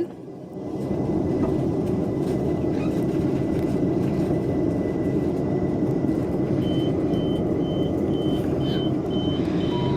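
Steady rumble of a London Overground electric train heard from inside the carriage as it comes into a station. About seven seconds in, a high beep starts repeating about twice a second: the train's door alarm.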